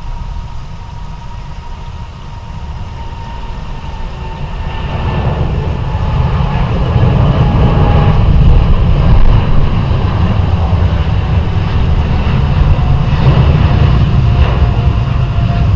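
Boeing 777 jet engines at takeoff power: a deep rumble that builds over the first several seconds and then holds loud, with a faint whine gliding slightly down in pitch.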